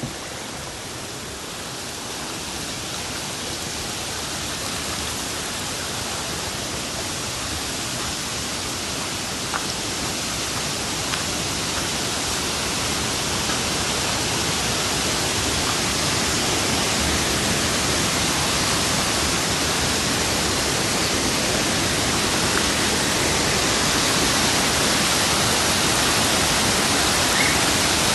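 Rushing water, a steady dense hiss that grows slowly and evenly louder.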